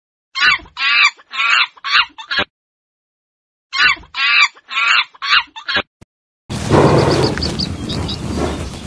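Monkey calling in two bouts of five short, high-pitched chattering cries with a second of silence between. About six and a half seconds in, a buffalo's low, rough call over noise starts and carries on.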